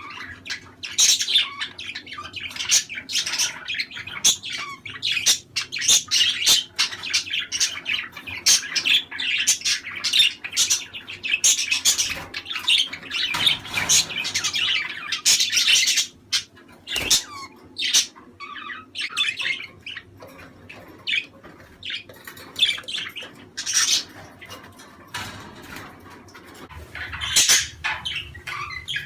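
Budgerigars chattering, chirping and squawking in a fast, busy stream. The chatter is densest in the first half, thins out in the second half and picks up again near the end.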